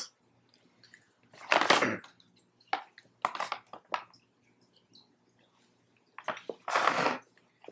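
Two people quietly chewing chocolate-covered pecans: small scattered clicks and mouth noises, with two louder short hissing bursts about five seconds apart.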